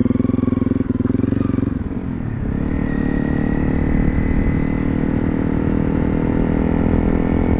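Honda CRF300 Rally's single-cylinder engine running; about two seconds in its note dips briefly, then holds steady at a slightly higher pitch.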